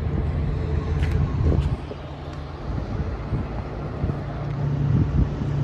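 Low, steady engine rumble that eases off about two seconds in and builds again toward the end.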